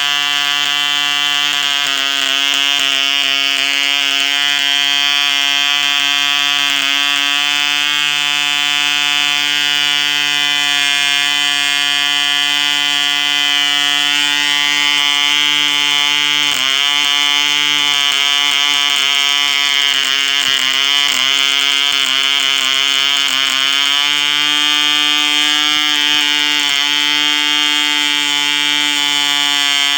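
1959 ED Mk2 1cc two-stroke model diesel engine running at high speed, turning an 8x4 propeller with a steady high-pitched buzz. About halfway through the pitch dips and wavers for several seconds, then settles back to a steady run.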